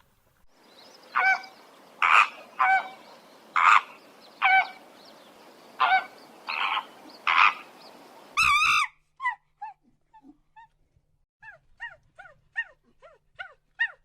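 An animal calling: about nine loud, short pitched calls over a steady hiss, then a brief warbling cry, followed by a run of quieter, short falling yelps.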